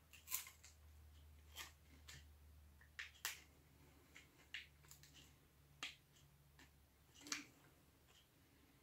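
Faint, scattered clicks and crackles from eating a chocolate-coated bar: biting and chewing, with the wrapper being handled. About seven separate short clicks, the last about a second and a half before the end.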